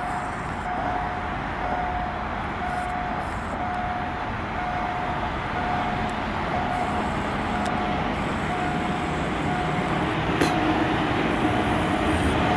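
An approaching freight train hauled by an ET22 six-axle electric locomotive: a steady rumble that grows gradually louder, with a low hum coming in near the end. A tone sounds about once a second throughout.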